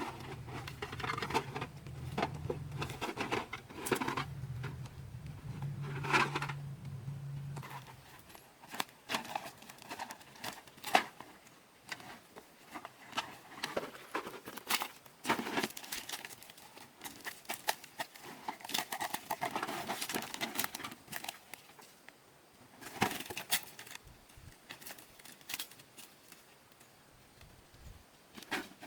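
Irregular clicks, knocks and rustling of objects being handled, with a low hum for about the first eight seconds.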